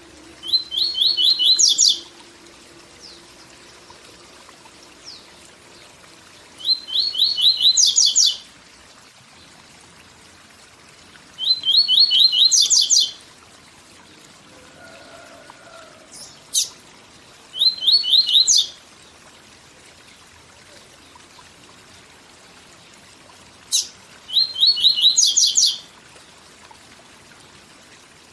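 A papa-capim (Sporophila seedeater) sings its 'tui tui zel zel' song five times, with pauses of several seconds between phrases. Each phrase is a fast run of high notes that jumps higher at the end. Under the song runs a faint, steady waterfall rush.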